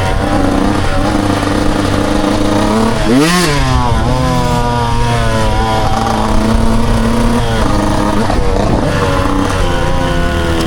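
Dirt bike engine running under varying throttle, with a quick rev that rises and falls sharply about three seconds in.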